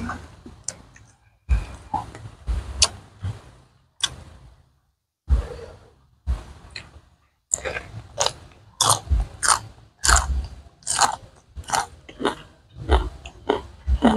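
Close-up chewing of crisp raw vegetables, with sharp crunches. It pauses briefly about five seconds in, then a quick run of crunchy bites follows through the second half.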